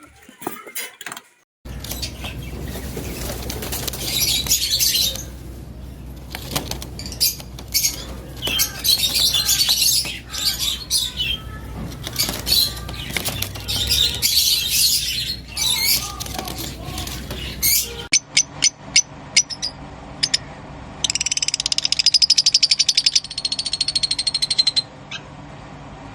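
Lovebirds chattering and screeching in repeated high bursts over a steady low hum. About two-thirds through, the hum stops, a few sharp clicks sound, and then a dense, buzzing chatter runs for several seconds.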